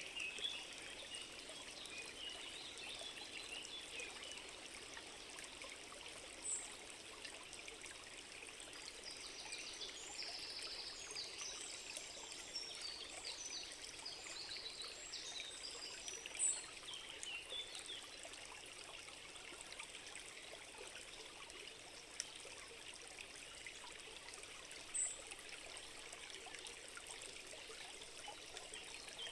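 A forest stream flowing steadily, with short high bird calls now and then, a cluster of them near the middle.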